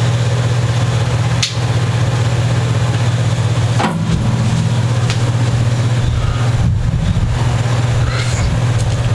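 A loud, steady low hum, with a sharp click about one and a half seconds in and another about four seconds in.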